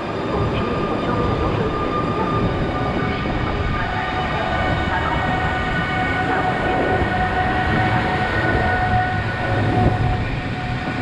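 A train running through the station platform: a steady loud rumble with several steady high whining tones over it, one more setting in about four seconds in.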